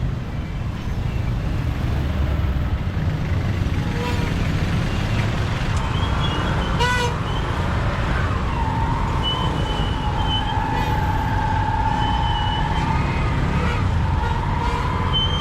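Riding through city traffic on a motorbike: a steady low rumble of engine and road noise. A short vehicle horn toot comes about seven seconds in, followed by a longer held, slightly wavering tone lasting about four seconds.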